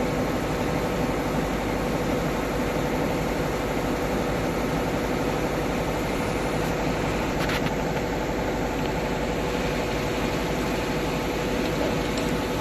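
Cylindrical grinding machine running steadily: an even mechanical hum and whir with a steady mid-pitched tone. One brief click comes about halfway through.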